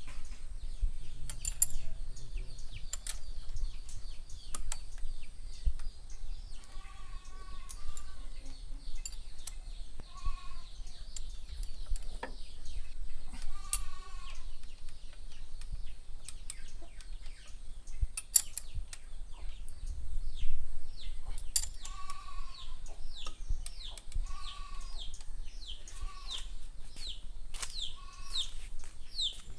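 Animal calls, about eight short pitched cries of roughly a second each, scattered among sharp clicks and knocks of work on the engine, with quick bird chirps near the end.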